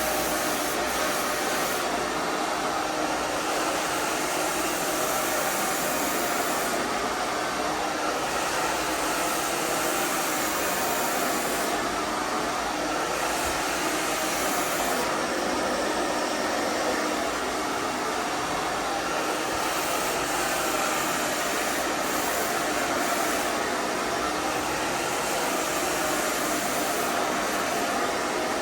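Hairdryer blowing steadily, a constant rush of air over a motor hum, as it dries and styles long hair.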